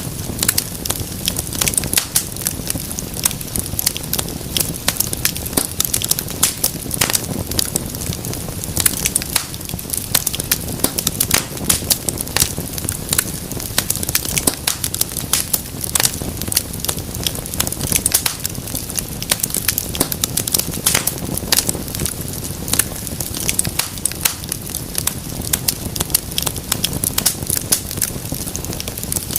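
Wood fire in a fireplace crackling and popping steadily, with many sharp irregular snaps over a low rumble of burning.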